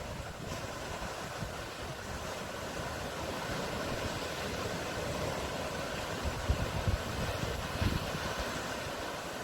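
Sea surf washing steadily as a continuous rumbling hiss, with a few low buffets of wind on the microphone about two thirds of the way through.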